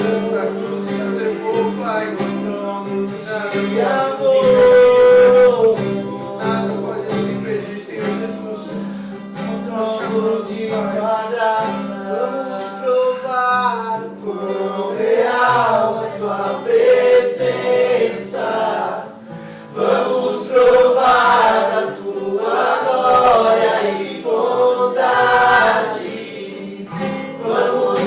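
Several voices singing a worship song together in unison, accompanied by a strummed acoustic guitar.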